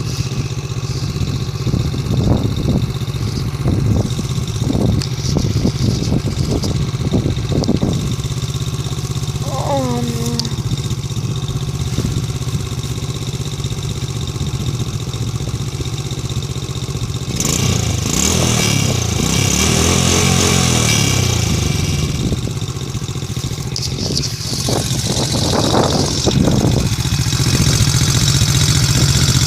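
A vehicle engine's exhaust idling with a few short throttle blips. From about halfway through it is revved up and down repeatedly and gets louder.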